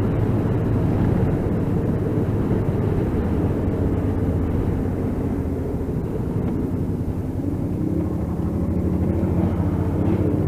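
Motorcycle engine running steadily under way, with wind rush, heard through a mic inside the rider's helmet; the engine note rises a little about eight seconds in.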